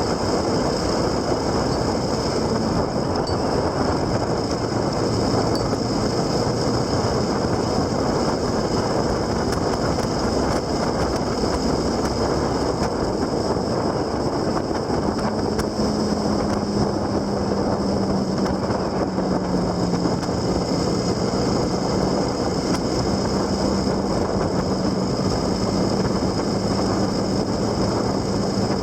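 Wind rushing over the microphone on a moving ride, with a steady low hum joining about halfway through.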